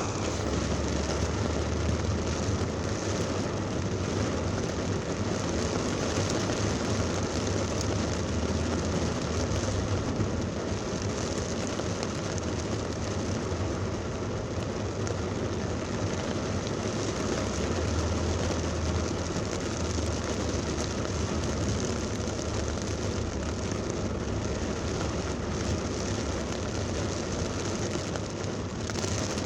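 Heavy thunderstorm rain pouring steadily, over a constant low rumble of road traffic.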